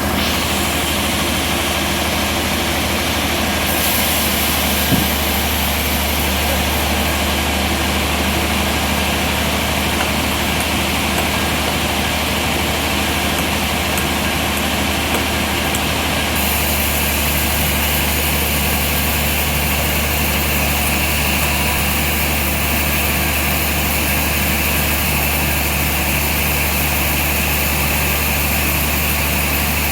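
Bandsaw sawmill machine running steadily with a low motor hum and a high hiss that shifts in character about 4 seconds and 16 seconds in.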